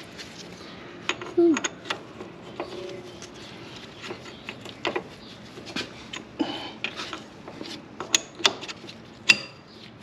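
Irregular metallic clicks and clanks of hand tools and axle parts being handled, with a cluster of sharper knocks near the end.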